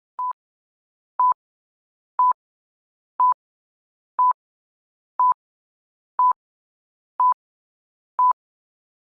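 Short electronic beeps, one a second, all at the same single mid pitch: a quiz countdown timer marking off the time left to answer.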